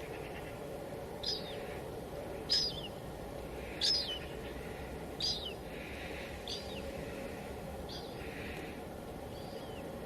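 A bird repeating a short, high call about seven times at an even pace, roughly one call every second and a quarter, over steady background noise.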